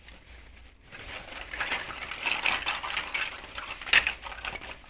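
Crinkling and rustling of plastic food packaging being handled, starting about a second in, with many small clicks and one sharp click near the end.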